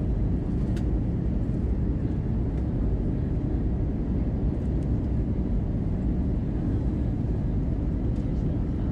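Steady low roar of airflow and engines inside the cabin of an Airbus A320 airliner on approach to landing, with a faint click about a second in.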